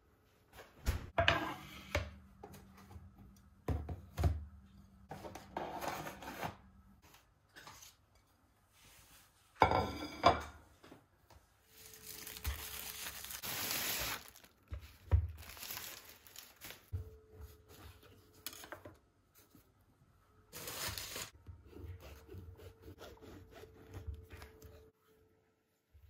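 Household handling sounds: scattered knocks and clatter of objects being picked up and set down, with rustling and a longer rasping, tearing-like noise about twelve to fourteen seconds in.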